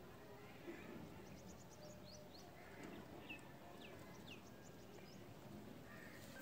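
Faint bird chirping: scattered short high chirps and a few quick downward-sweeping calls, over a low steady background hum.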